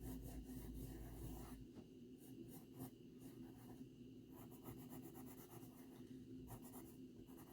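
Faint scratching of a pencil sketching on paper in short, repeated strokes.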